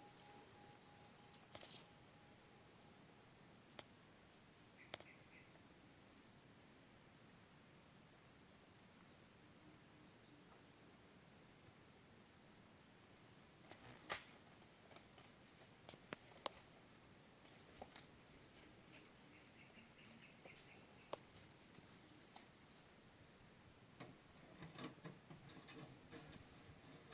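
Crickets chirping steadily, a faint high trill with evenly repeating pulses, broken by a few sharp clicks about halfway through.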